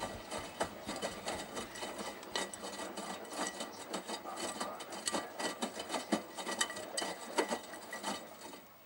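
Miele Navitronic washing machine tumbling a load of T-shirts in the wash: a dense, irregular sloshing and clattering that dies away near the end.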